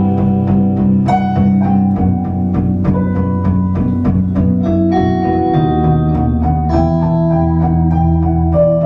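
Live band playing an instrumental passage with no singing: a keyboard melody of distinct struck notes over held bass notes.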